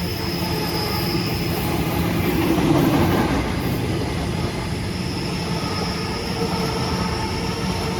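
Sydney Trains electric suburban passenger train running past close by, its rolling noise swelling to a peak about three seconds in, with a thin high wheel squeal.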